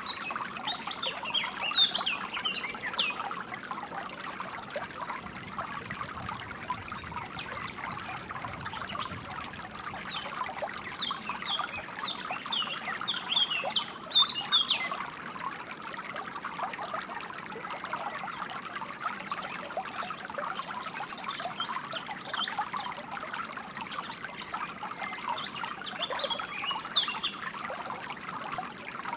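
A small stream trickling and splashing steadily, with songbirds chirping over it in short bursts near the start, around the middle and again later.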